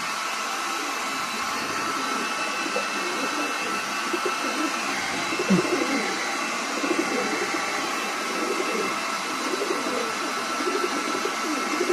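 Roller pigeons cooing on and off over a steady whirring hiss with a faint high whine in it, like a fan or blower running.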